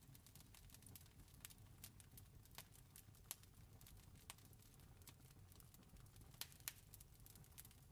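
Quiet campfire crackling: irregular sharp pops and snaps, a few each second, over a low steady rumble.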